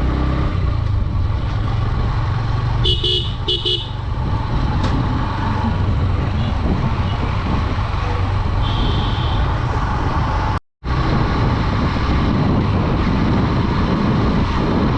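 A Honda Dream 110 commuter motorcycle is being ridden at a steady pace, its engine running under constant wind and road noise. A vehicle horn toots several short times about three seconds in, and a brief higher beep follows near nine seconds. The sound cuts out for a split second about ten seconds in.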